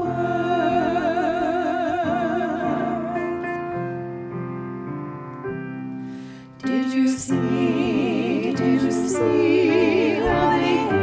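Three women singing a Christmas song in close harmony, holding long notes with vibrato. One phrase dies away, and a louder new phrase begins about two-thirds of the way through.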